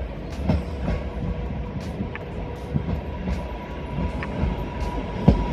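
Class 323 electric multiple unit moving through the station: a steady low rumble with a faint steady whine, and the wheels knocking over rail joints, with two sharp knocks near the end.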